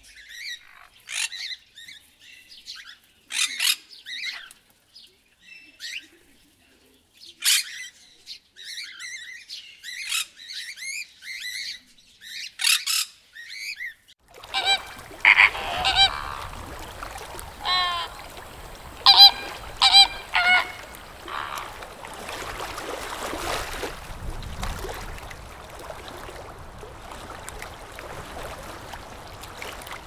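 Scattered short, shrill calls of a brown lory for the first half. At about halfway they give way abruptly to a flock of flamingos honking in goose-like calls over a steady background hiss.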